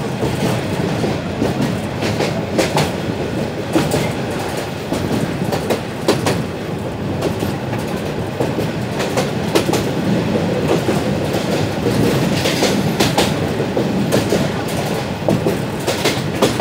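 Jamalpur Commuter passenger train running along the track, heard from on board: a steady rumble of wheels on rail with irregular clicks and clatter over the rail joints.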